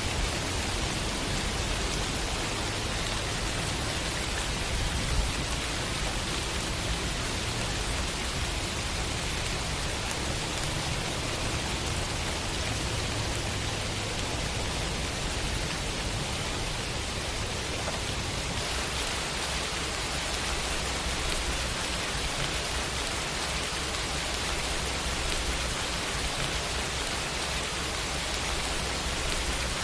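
Steady rain falling on hard surfaces, an even, dense hiss; its texture shifts slightly about two-thirds of the way through.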